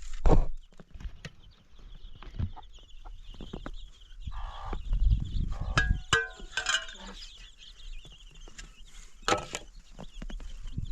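Chickens clucking, with short calls now and then and scattered knocks and taps.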